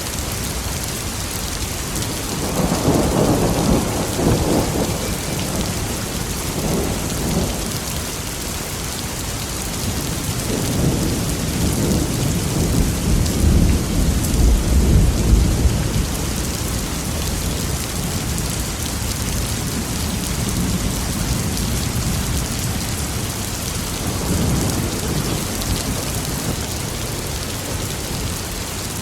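Steady heavy rain with rolling thunder: one rumble about two seconds in, a longer, deeper roll peaking around the middle, and a softer rumble near the end.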